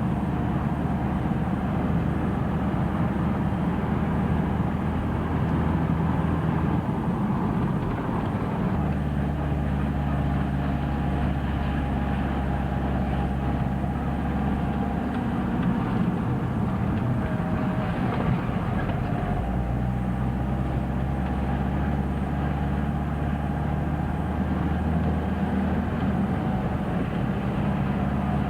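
Camper van engine running while driving, a steady low drone whose pitch shifts a few times as the engine speed changes.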